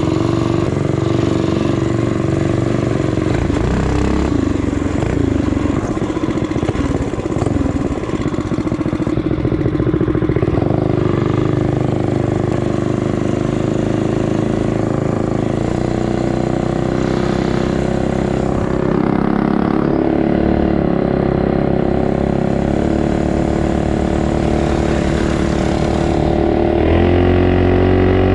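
Small four-stroke single-cylinder minibike and dirt bike engines running under way, their pitch rising and falling with the throttle. The engine note climbs and gets louder about a second before the end.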